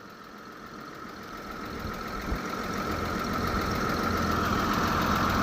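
An engine running and growing steadily louder, with a steady whine over a low rumble.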